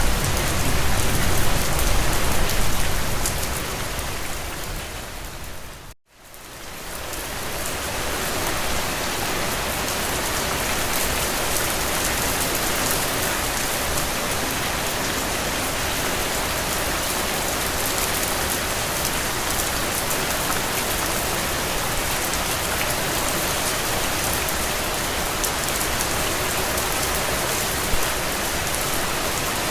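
Steady rain falling. About six seconds in it fades briefly to silence and swells back in, as at the seam of a looped recording.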